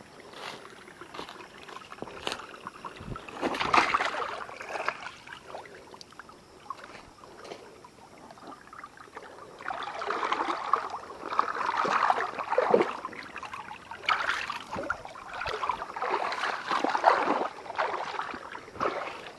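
Water sloshing and splashing in irregular bursts, with quieter stretches between them.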